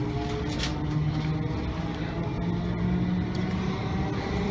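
Train running, heard from on board: a steady low hum of its drive with a few pitched tones that slowly rise as it gathers speed.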